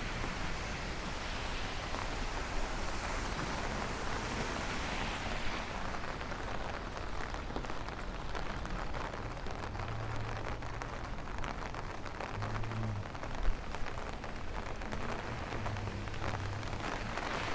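Steady rain falling on an umbrella overhead and on the street, with many individual drops striking close by. A single sharp knock stands out about three quarters of the way through.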